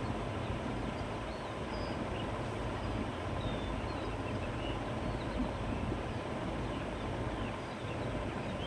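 Steady countryside wind blowing through grass and trees, with a low rumble, and small birds chirping faintly now and then.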